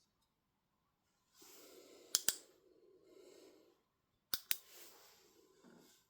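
Plastic toy sonic screwdriver being handled: rustling with two sharp double clicks, about two seconds apart.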